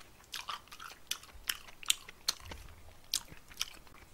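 Close-miked chewing of cooked yellow croaker, with sharp wet mouth clicks and smacks coming irregularly about twice a second.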